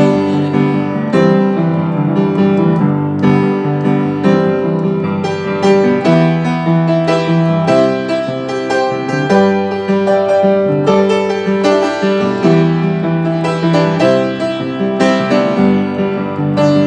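Piano playing an instrumental passage of rhythmic chords with no singing.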